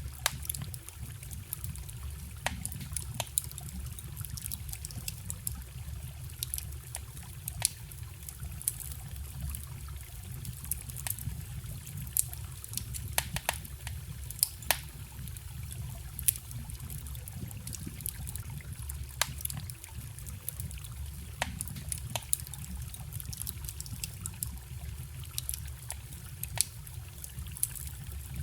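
Wood campfire crackling with sharp, irregular pops, over the steady low rush and trickle of a forest stream.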